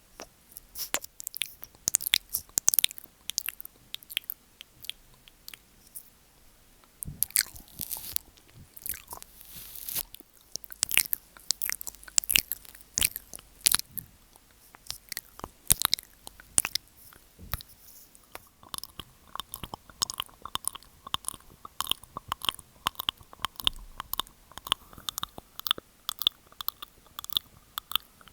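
Close-miked ASMR mouth sounds: wet clicks, smacks and tongue clicks in irregular runs. About two-thirds of the way through they turn into a quicker, more even run of clicks.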